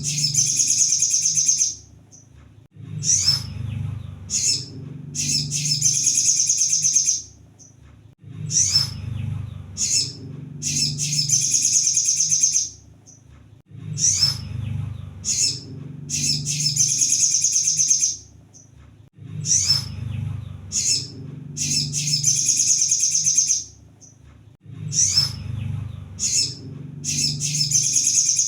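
Crimson sunbird (kolibri sogon) song on a repeating loop: a few short, sharp high chirps, then a rapid high trill lasting about a second and a half. The phrase comes back about every five and a half seconds, with a low rumble underneath that swells with each phrase.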